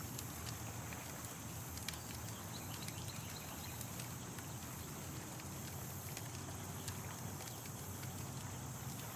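Campfire crackling: scattered sharp pops and snaps over a steady hiss, with a low hum underneath.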